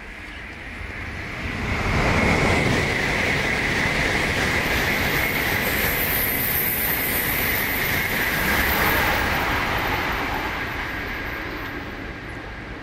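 N700 Series Shinkansen high-speed train passing at speed: a rushing rumble of wheels and air that builds over the first two seconds, holds loud, then fades toward the end as the train draws away, with a steady high-pitched whine running through it.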